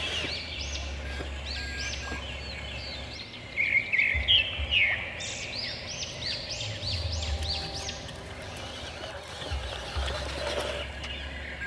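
Small birds calling outdoors: a run of quick chirping notes, each rising and falling in pitch, thickest in the middle seconds, over a low rumble.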